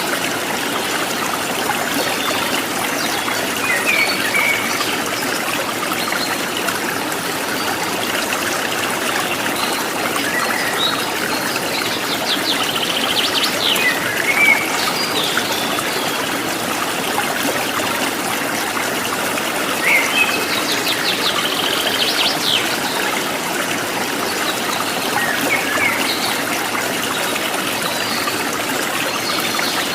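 Stream water running and trickling steadily, with birds chirping now and then over it, including two longer rapid trills: one near the middle and one about two-thirds of the way through.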